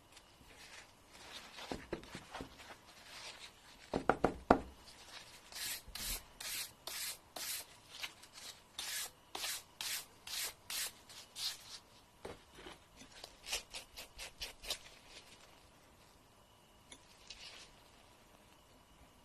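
Fingernail being filed by hand, short rasping strokes back and forth at about two to three a second, with a few sharp taps shortly before the steady run begins. The strokes thin out and fade near the end.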